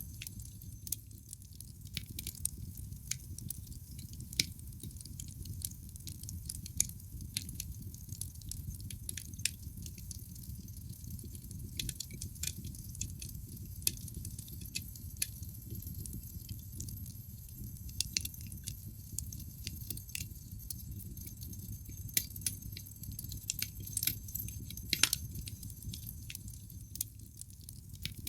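Wood fire crackling in a fireplace: irregular sharp pops and snaps over a low steady rumble of burning flames, with one louder snap near the end.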